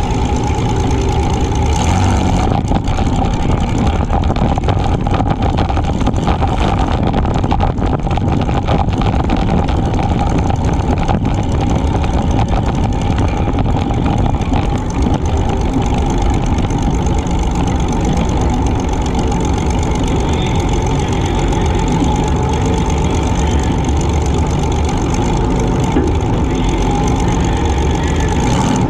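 Compact demolition derby car's engine running steadily, heard close up.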